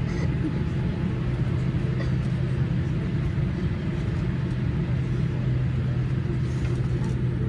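Boeing 787 Dreamliner cabin noise after landing: a steady rumble with a low, even hum from the aircraft as it rolls along the ground.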